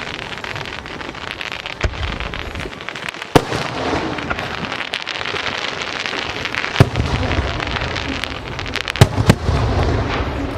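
Aerial fireworks display: a continuous dense crackling of bursting shells, broken by sharp, loud bangs about two seconds in, at three and a half seconds, near seven seconds, and twice in quick succession around nine seconds.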